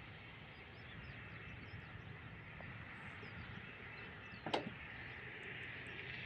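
Distant road traffic as a steady low rumble, with small birds chirping faintly. A single sharp click sounds about four and a half seconds in.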